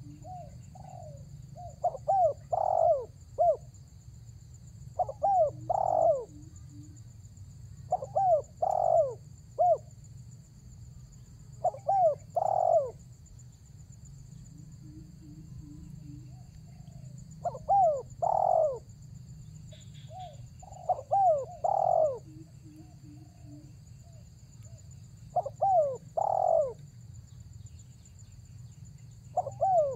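Spotted dove (tekukur) cooing in full song: a short phrase of two or three rising-and-falling coos, repeated about every three to four seconds, eight times in all.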